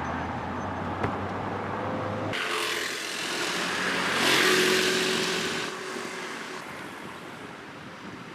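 Motor traffic: a vehicle's low, steady engine hum, then an abrupt cut to a vehicle passing by, swelling to its loudest about four seconds in and fading away.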